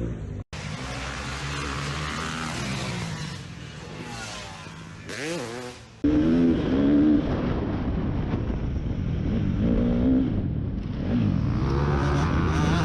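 Motocross bike engines revving, the pitch rising and falling with the throttle, over several edited clips that cut abruptly about half a second in and again about six seconds in, where the engine gets louder.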